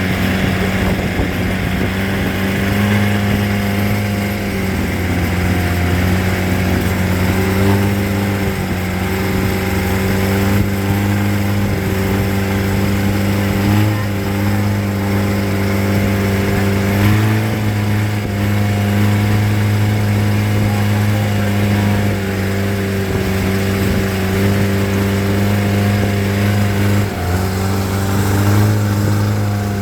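A boat's engine running steadily under way, at a nearly constant speed with small shifts in pitch and a brief dip near the end.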